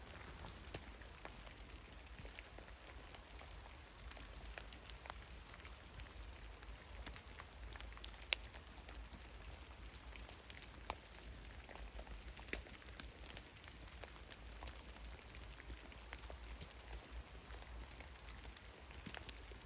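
Meltwater dripping from heavy melting snow in a forest: many scattered drops ticking irregularly onto snow and branches over a faint hiss, one drop louder than the rest about eight seconds in.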